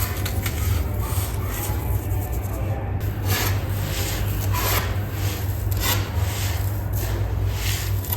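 Dry sand-cement clumps being crumbled, an irregular run of gritty crunching and rubbing strokes.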